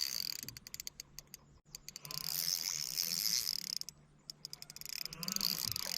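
Fishing reel's drag clicking in rapid, irregular bursts as a hard-fighting smallmouth bass pulls line off it.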